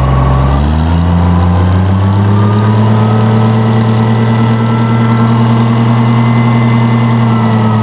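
1966 Oliver 1650 tractor's six-cylinder gas engine running. About half a second in, the revs rise smoothly over two seconds or so and then hold steady at the higher speed, as the hand throttle is opened up toward PTO speed.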